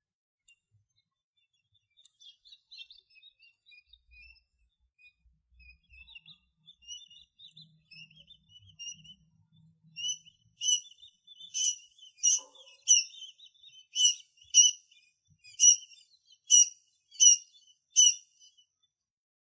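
Tiny birds chirping: soft, scattered twittering at first, then about halfway through a run of a dozen or so loud, sharp chirps, roughly one and a half a second.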